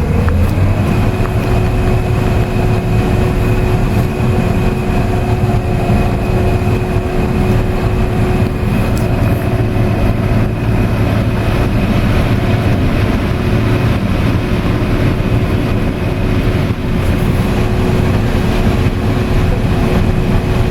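Combine harvester running while harvesting corn: a loud, steady machine drone with a constant whine over it, rising briefly in pitch about a second in.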